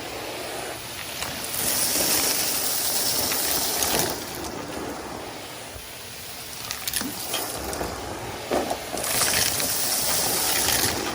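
Numatic Henry cylinder vacuum cleaner running, its hose sucking up debris. The rush of air turns brighter and louder twice, from about a second and a half in and again near the end.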